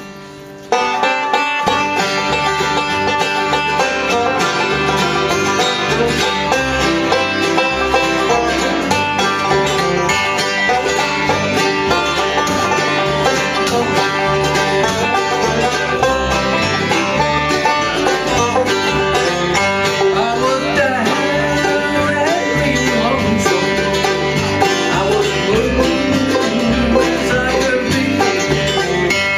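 Bluegrass band of upright bass, five-string banjo, mandolin and guitar kicking off a song less than a second in and playing on with a steady driving beat.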